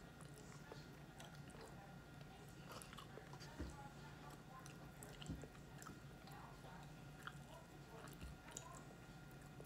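Quiet, close-up chewing and biting of fried chicken, with scattered small wet clicks and smacks of the mouth. Three soft low thumps come a few seconds apart.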